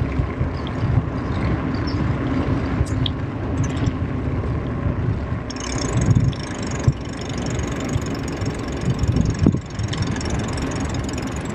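Steady low rumble of wind and tyre noise while riding a bicycle. A thin, high whine joins about halfway through.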